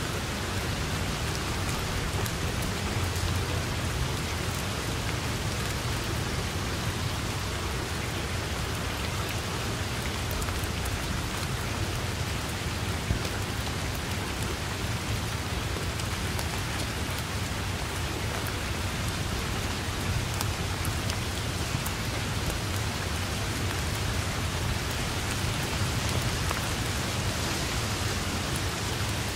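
Steady rain falling on grass and tree foliage, an even hiss with scattered sharp drop ticks and a low rumble underneath.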